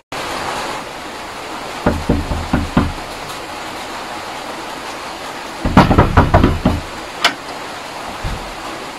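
Several knocks over a steady hiss: three or four about two seconds in, then a quicker cluster about six seconds in, and one sharp click just after.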